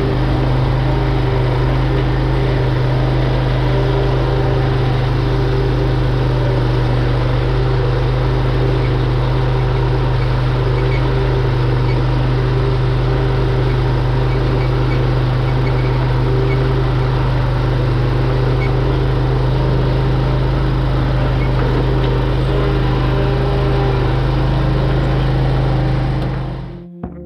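Zero-turn lawn mower engine running steadily at a constant speed, cutting off near the end.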